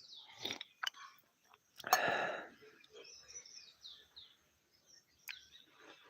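Wild birds chirping and singing in short, high calls and trills, with one louder harsh burst about two seconds in.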